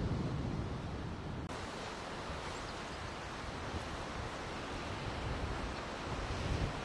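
Strong wind rumbling on the microphone in gusts over a steady rushing hiss. The hiss turns brighter abruptly about a second and a half in.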